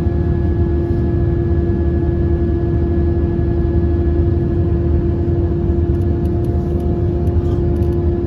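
Airbus A319 cabin noise during the climb: a steady low rumble of engines and airflow with a constant droning hum over it, the odd sound the passenger noticed throughout the flight. A few faint ticks near the end.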